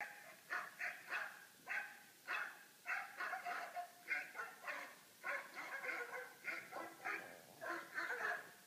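Small dogs barking and yapping over and over, about two barks a second, heard through a laptop's small speakers.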